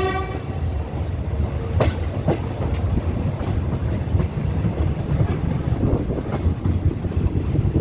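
Commuter train coach rolling along the track, heard from its open window: a steady low rumble of wheels on rail with irregular clacks over the rail joints. A brief steady pitched tone sounds right at the start.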